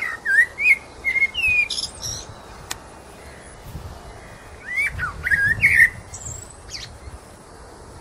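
Birds chirping and calling with short whistled notes that rise and fall, in two spells about four seconds apart, over a steady outdoor hiss.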